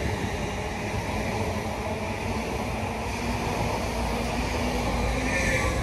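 A train running along the track at a station: a steady rumble, with a higher whine that comes up briefly near the end.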